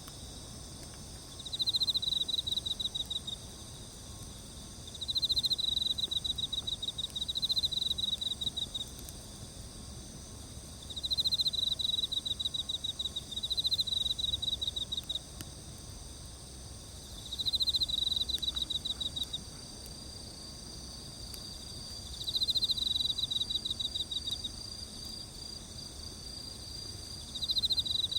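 Crickets chirping: a rapidly pulsed high trill repeats every few seconds, each burst lasting one to two seconds, over a steady high-pitched drone of other insects.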